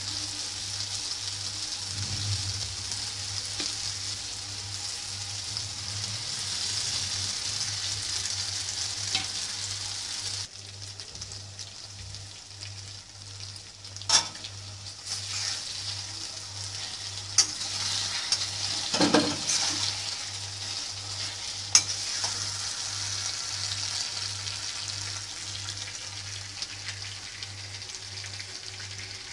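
Okra, onion and tomato sizzling in a hot black karahi while a metal spatula stirs them, with a few sharp clinks and scrapes of the spatula against the pan. The sizzle drops somewhat about ten seconds in.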